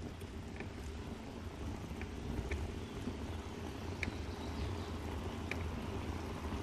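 Steady low rumble of a bicycle being ridden, with short light ticks at irregular intervals of about half a second to a second.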